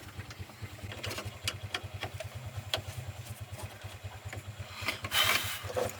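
Truck engine idling with a steady, even low beat, with scattered light clicks and knocks and a brief loud hiss about five seconds in.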